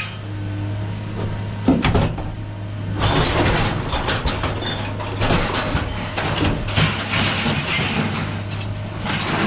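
A few knocks about two seconds in, then continuous clattering and rattling, over a steady low hum.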